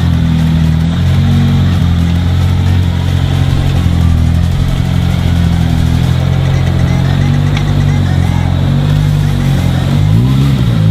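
Car engine running with a steady low note, its revs rising and falling in a few short blips near the end.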